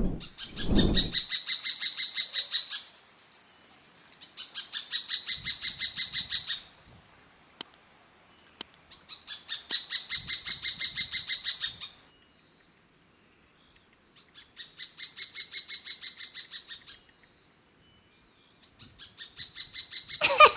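Uniform treehunter singing: about five long, fast trills of sharp repeated notes, roughly eight notes a second, each trill lasting two to three seconds and arching slightly up then down in pitch, with short pauses between.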